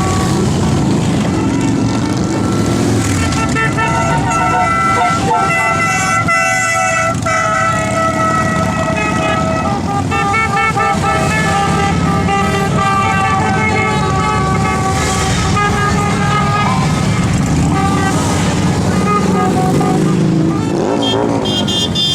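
Motorcycle engines running in a steady low rumble, with horns sounding in held toots, several at once through the middle of the stretch.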